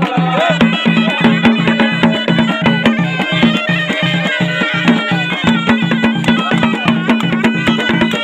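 Moroccan ghaita, a double-reed folk shawm, playing a reedy melody over a fast, steady drum beat.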